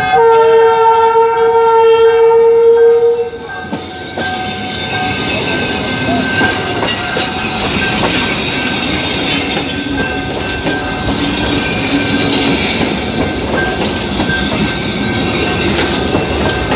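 Passenger train sounding one long horn blast of about three and a half seconds, then its coaches rumbling and clattering over the rails as they pass close by at a level crossing. A steady high warning tone from the crossing signal sounds underneath.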